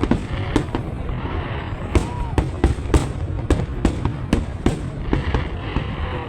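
Fireworks going off in an irregular string of sharp bangs, a few a second, over a continuous low rumble.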